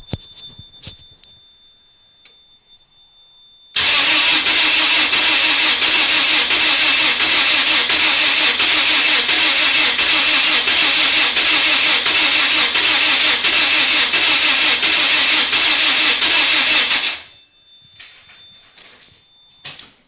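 Lotus car engine cranking on its starter motor for about thirteen seconds with an even, pulsing rhythm, never catching, then stopping abruptly: a no-start.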